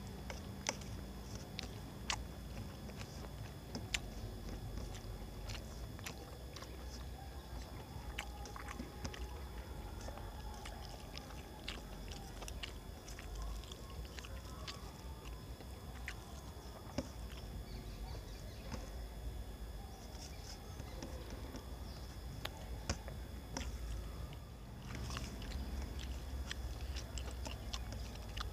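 Close-up eating sounds of a man eating rice and fried katla fish by hand: chewing and lip smacking, with many short, irregular sharp clicks.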